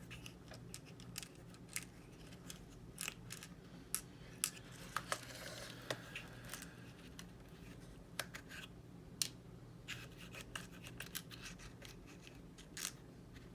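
Scattered small clicks, ticks and scrapes of small plastic model-kit parts and screws being handled, with a short rustle about five seconds in. A faint steady hum runs underneath.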